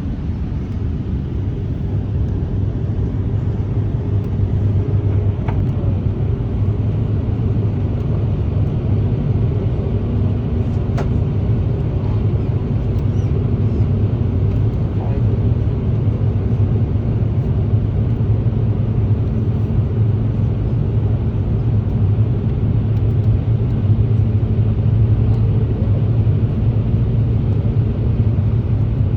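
Steady cabin rumble of a JAL Airbus A350 airliner in flight: the drone of its Rolls-Royce Trent XWB engines and the rush of air over the fuselage, with a constant low hum, growing a little louder over the first few seconds.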